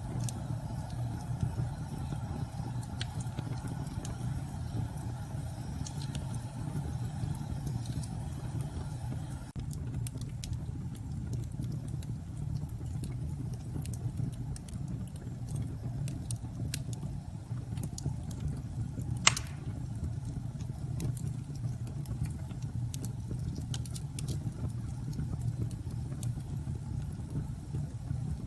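Fireplace crackling, with scattered small pops and one sharp, louder pop a little past the middle, over a steady low rumble of storm wind.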